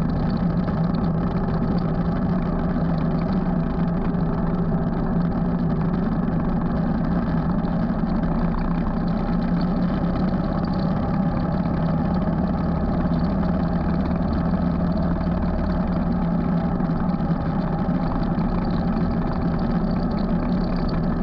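Motorcycle engine running at a steady cruising speed with little change in pitch.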